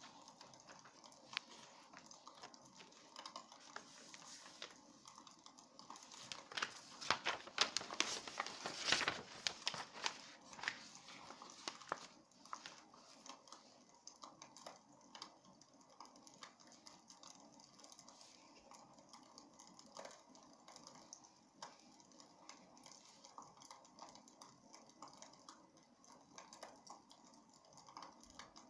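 Wood fire crackling in a fireplace: irregular snaps and pops over a soft hiss, with a denser, louder flurry of crackles a few seconds in that then settles back.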